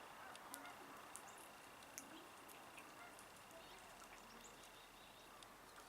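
Faint outdoor ambience with scattered short, high bird chirps and clicks over a faint steady high hum.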